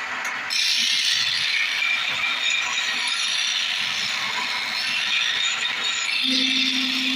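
Turning tool cutting wood spinning on a lathe: a steady rasping scrape that grows louder about half a second in. A low steady hum joins near the end.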